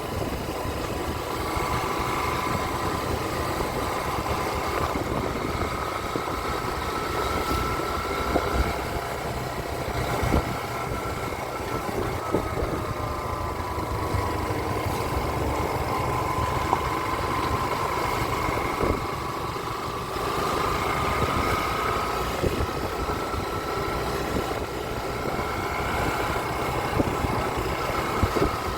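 Small-displacement motorcycle engine running steadily, with a whine whose pitch slowly drifts up and down.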